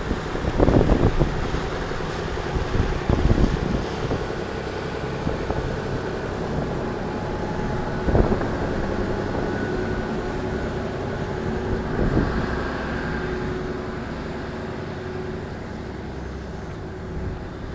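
A boat's engine running steadily under way, with wind noise on the microphone and a few thumps.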